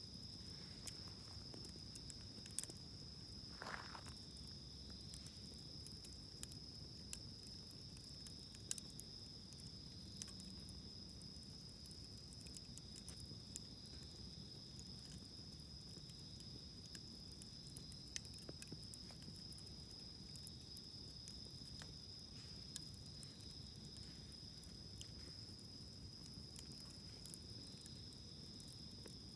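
Faint crackle of a wood campfire, with scattered short sharp pops, over a steady high-pitched insect chirring.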